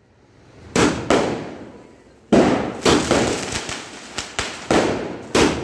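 A 60-shot fireworks repeater cake firing: about ten sharp bangs, each with a short fading echo, coming quicker and closer together after the first two seconds.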